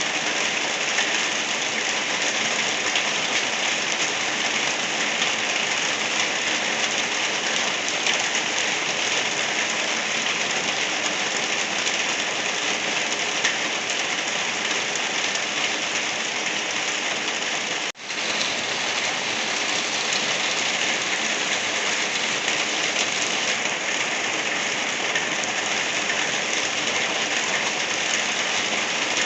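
Steady rain falling, a continuous even hiss of drops on surfaces. It cuts out for an instant about two-thirds of the way through, then carries on unchanged.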